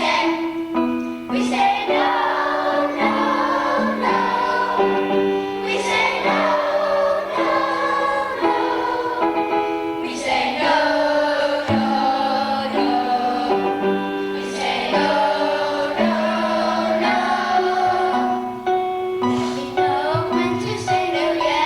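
A choir singing a song with instrumental accompaniment, over a bass line that steps from note to note.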